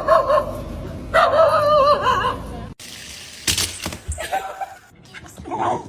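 A dog vocalizing in drawn-out calls that waver in pitch, a short one and then a longer one of about a second. The sound cuts off suddenly, and a few sharp knocks follow.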